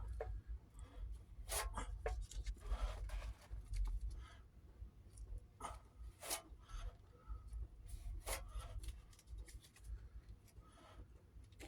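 Irregular scratchy rubbing strokes of body filler being worked by hand on a truck door panel, over a low steady rumble.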